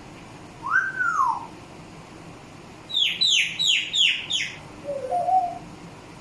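Pet parrot whistling: one rising-and-falling whistle, then a quick run of five falling chirps, then a short low warble near the end.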